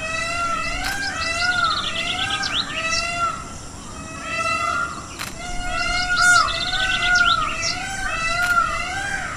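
Bird calling over and over: runs of short arched notes that rise and fall in pitch, several a second, with quicker trilled notes higher up, in two bouts with a brief lull between them.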